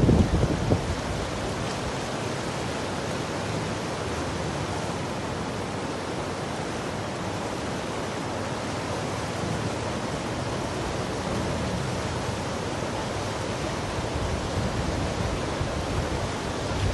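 Swat River in heavy flood: a steady, even rush of fast floodwater. Wind buffets the microphone briefly at the start.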